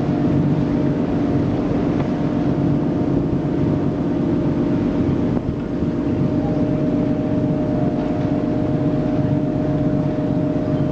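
Canal tour boat's engine running steadily, a constant hum with a few even tones.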